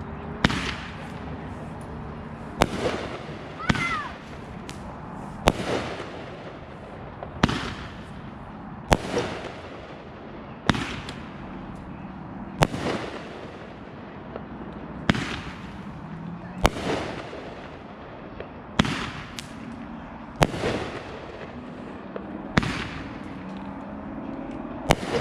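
Consumer fireworks going off in a backyard show: a sharp bang about every one and a half to two seconds, each with a short trailing echo. A brief whistle sounds about four seconds in.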